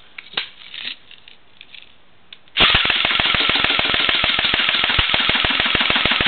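Pulse M74 DP airsoft gun firing full-auto in one long unbroken burst of rapid, evenly spaced shots, emptying its magazine. The burst starts about two and a half seconds in, after a few faint handling clicks.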